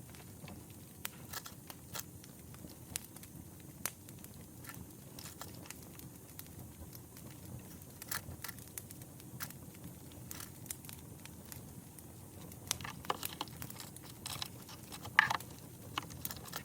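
Wood fire crackling: irregular sharp pops and snaps over a low steady rumble, thickening near the end, with one louder pop close to the end.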